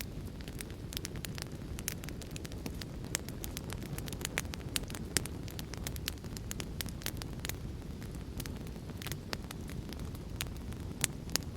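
Wood fire in a fireplace crackling, with sharp irregular pops several times a second over a steady low rumble.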